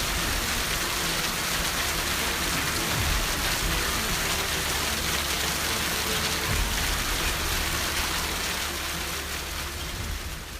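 Hailstorm: hail and rain pelting down steadily in a dense hiss, with a low rumble underneath. It fades near the end.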